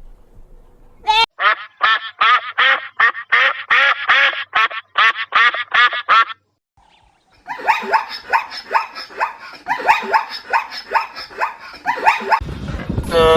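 Ducks quacking in fast runs of short calls, about three or four a second. The calls break off for about a second after six seconds, then a denser run of quacking follows, and a low rumble comes in near the end.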